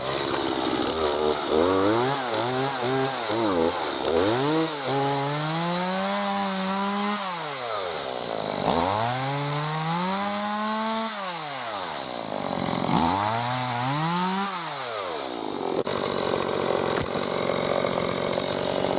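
Gas chainsaw throttled up again and again as it cuts cedar branches: a few short revs, then three longer runs at high speed, each one dropping back to idle. It settles into steady lower running near the end.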